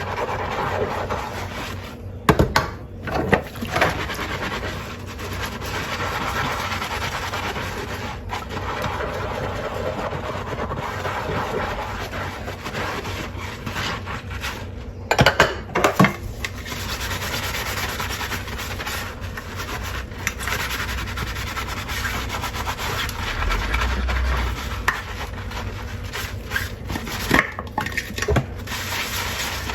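Dishes being washed by hand: a sponge scrubs steadily, and the dishes clink against each other now and then, most sharply a few seconds in, about halfway through and near the end.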